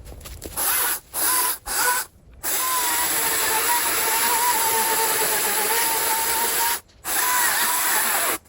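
Chainsaw run in three short bursts, then held running with a steady whine for about four seconds, cutting out briefly and starting again near the end.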